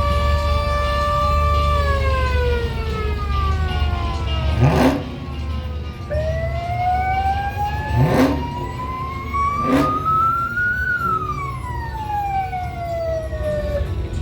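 A siren holding its pitch, winding down, then winding slowly up and down again, over the low rumble of vehicle engines. Three short loud bursts cut through it, about a third of the way in, past the middle, and again a second and a half later.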